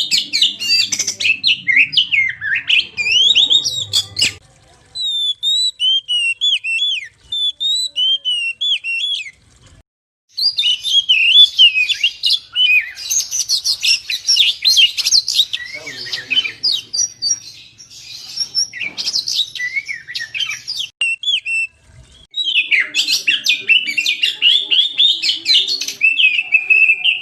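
Oriental magpie-robin (kacer) singing a loud, fast run of varied whistled phrases, broken by a few short pauses.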